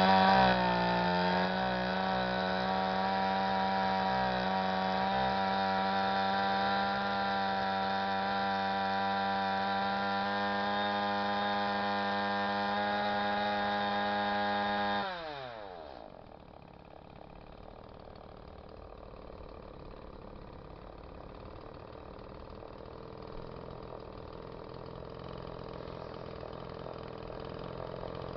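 Stihl MS-180 two-stroke chainsaw engine held at high revs, steady, for about fifteen seconds, then the throttle is released and it falls back to a quieter idle. It is a test run after a new piston and rings.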